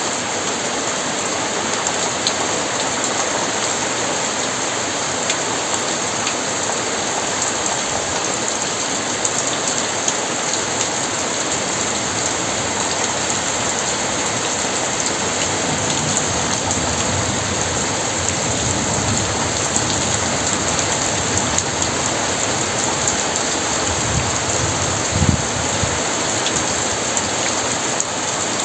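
Heavy rain falling steadily, with a low rumble of thunder building through the second half and peaking briefly near the end.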